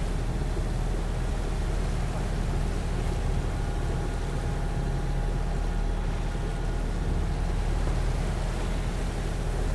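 Boat engine running steadily under way: a constant low drone with a hiss of wind and water over it and a faint steady whine.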